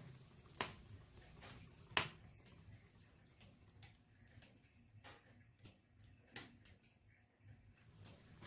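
Wood burning in a fireplace, crackling with irregular sharp pops and snaps, the loudest about two seconds in.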